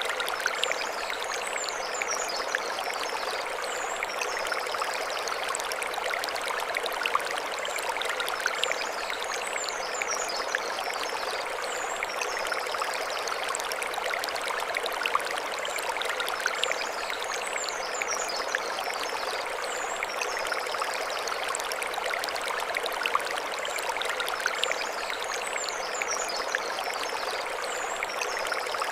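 Mountain stream flowing steadily over stones, an even rushing and babbling of water.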